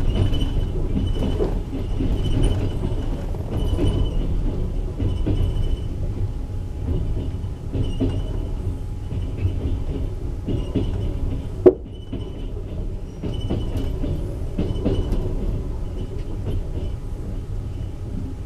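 A moving passenger train carriage heard from inside: a steady low rumble of wheels on rails, with irregular clacks as the wheels cross the rail joints. There is one sharp click a little after the middle.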